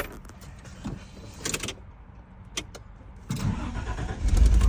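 Toyota 3VZ-E 3.0 V6 cold-started: after a few light clicks, the starter cranks for about a second and the engine catches about four seconds in, settling into a steady run. It is the first cold start with a newly fitted coolant temperature sensor, the suspected cause of the long crank and rough cold idle.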